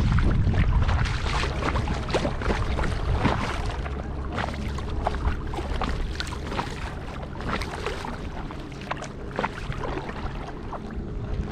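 Kayak paddle strokes in lake water, with many small splashes and drips, and wind buffeting the microphone as a low rumble that eases after the first few seconds.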